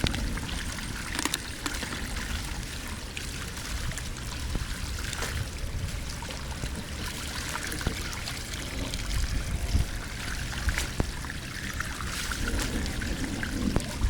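Water steadily pouring and trickling as it drains through a cleared blockage, with a low rumble underneath.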